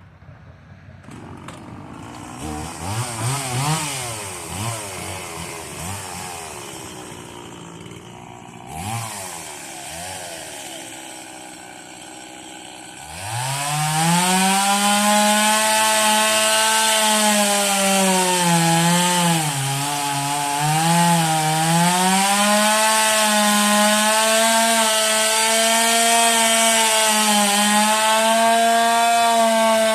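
Stihl chainsaw engine running unevenly at lower revs with a few throttle blips. About 13 seconds in it opens up to a loud, steady full-throttle scream, and its pitch sags a few times midway as the chain loads up in the wood.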